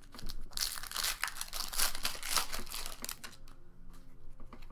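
Foil booster pack wrapper being torn open and crinkled: a dense spell of crinkling for about two and a half seconds, then lighter rustles.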